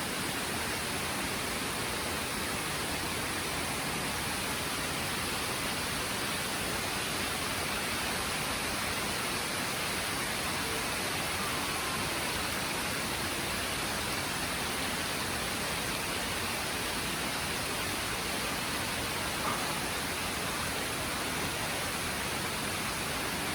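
Steady rain falling in a forest, an even hiss that holds at one level throughout.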